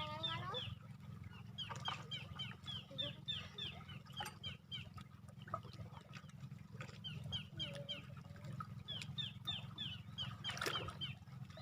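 Birds chirping in runs of short, high, falling notes, several a second, over a steady low hum.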